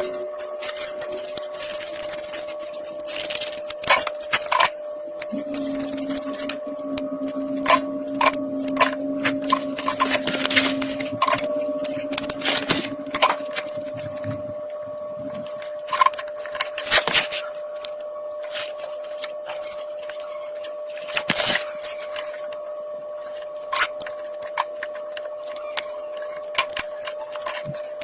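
Irregular clicks, taps and rustles of hands working on the torn palm of a goalie glove, over a steady hum. A lower steady sound runs from about 5 s to 14 s.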